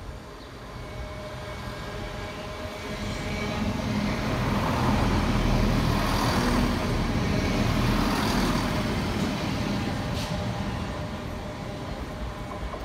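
A High Speed Train passing through a station at speed: diesel engine and wheels running on the rails, rising to a peak about halfway through, then fading as the coaches go by.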